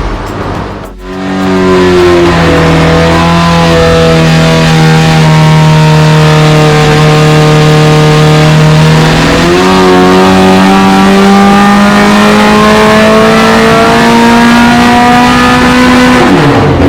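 BMC A-Series 1310 cc four-cylinder race engine running loud at high revs under load on a water-brake engine dyno. The pitch is held nearly steady, steps up about halfway through and climbs slowly, then falls away near the end.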